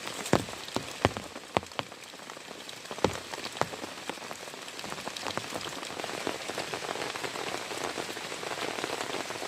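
Heavy rain falling steadily, with large drops striking a nearby surface in sharp taps that are loudest and most frequent in the first few seconds.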